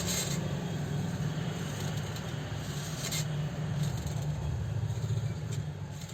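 Revo 81-3 overlock sewing machine running steadily at speed, with a fast even chatter and a few short clicks.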